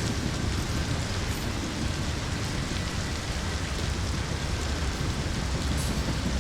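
Steady heavy rainfall with a continuous low rumble underneath.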